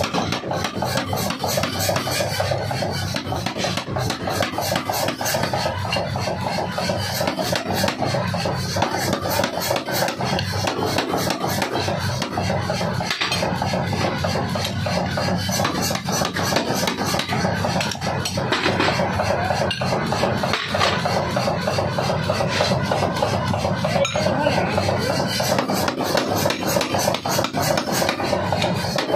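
A 75 kg pneumatic forging hammer running and striking hot steel in a rapid, even series of blows over the steady hum of its motor. This is the forging of an axe head.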